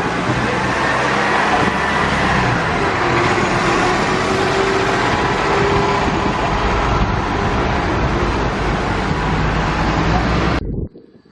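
Double-decker bus's diesel engine pulling away from the stop amid traffic noise, loud and steady; it cuts off abruptly near the end.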